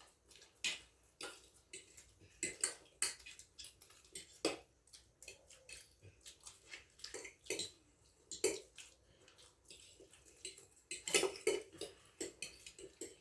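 Irregular clinks and taps of plates and cutlery as people eat chow mein fast, with a busy cluster of clatter about 11 seconds in.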